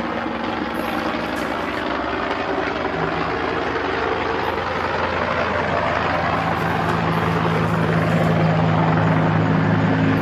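A steady mechanical engine drone that cuts in suddenly and grows slightly louder and deeper toward the end.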